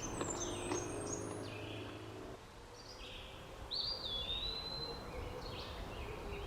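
Wild birds chirping and calling, with one longer whistled call a little past halfway.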